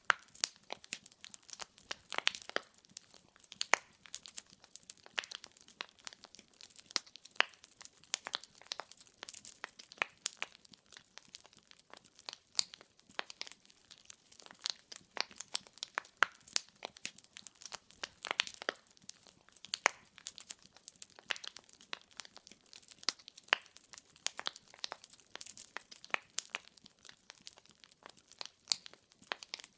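Firewood logs crackling and popping in a fireplace, many sharp irregular snaps over a faint hiss of the flames.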